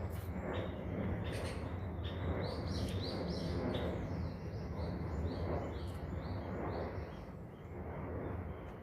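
Small birds chirping in quick, repeated short calls over a steady low background rumble.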